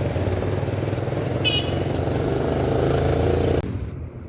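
Steady rumble of road traffic and wind on the microphone during a bicycle ride on a road, with a brief high squeak about one and a half seconds in. The sound cuts off abruptly near the end where the camera shut down.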